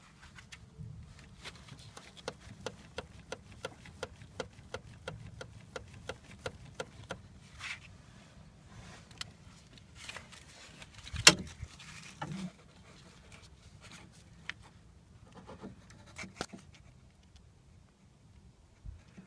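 Skoda Octavia engine running low and steady, with a quick run of light ticks, about three a second, then one loud knock about eleven seconds in. The car has a worn left engine mount (DSG) that needs replacing.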